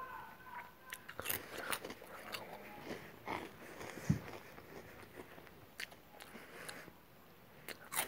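Someone chewing crunchy Cheetos cheese snacks: irregular crisp crunches and mouth clicks.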